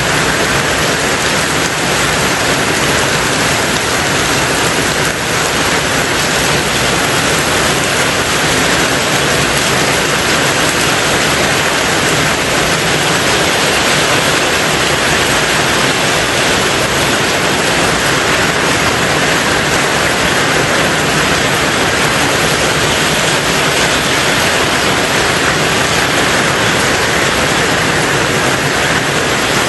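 Heavy rain falling on a tin roof: a loud, dense, steady hiss with no single drops standing out.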